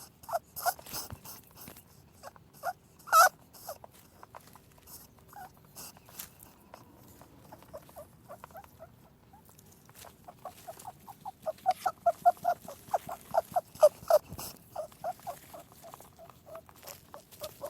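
Rabbit making soft sounds: scattered small clicks at first, then from about eleven seconds in a fast run of short ticks, roughly four a second.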